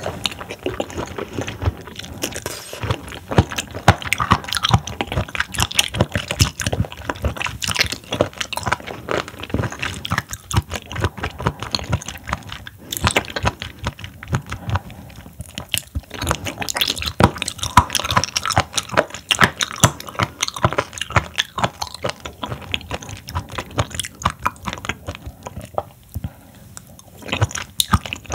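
Close-miked chewing of raw seafood sashimi (horn conch, sea squirt and scallop): a dense, uneven run of mouth clicks and bites.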